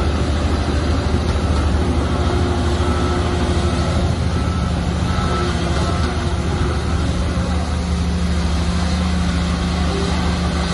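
Shantui bulldozer's diesel engine running steadily under constant power, with no change in pitch or level.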